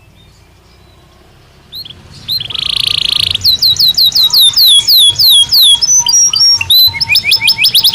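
Belgian canary singing: after a pause of about two seconds the song starts again with a short buzzy roll, then a run of downward-slurred whistled notes about three a second, and ends in a fast trill.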